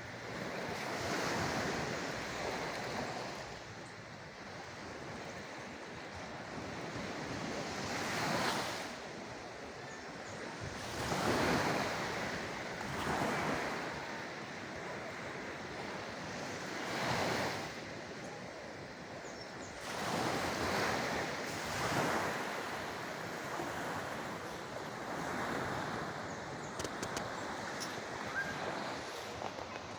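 Sea waves washing and breaking, a steady surf rising and falling in swells every few seconds.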